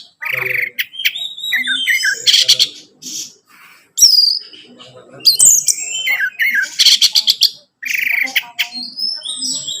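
Orange-headed thrush (anis merah) singing a varied song: quick rattling runs, whistled notes sliding up and down, and short pauses between phrases.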